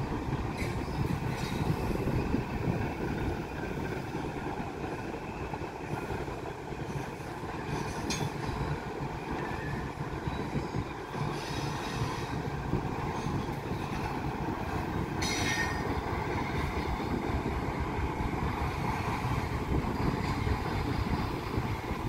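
Norfolk Southern intermodal freight train rolling past: a steady rumble of the cars on the rails, with a few brief high-pitched wheel squeals, the loudest about fifteen seconds in.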